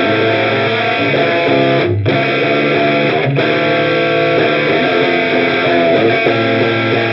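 Electric guitar played through an Olinthus Cicada overdrive pedal, distorted chords ringing out with brief breaks about two seconds in and again a second later.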